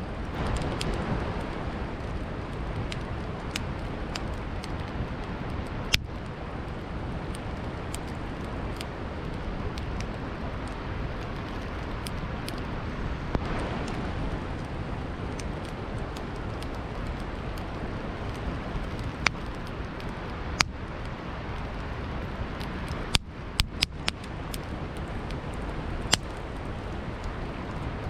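Campfire crackling, with scattered sharp pops of burning wood and a few in quick succession near the end, over the steady rush of a flowing river.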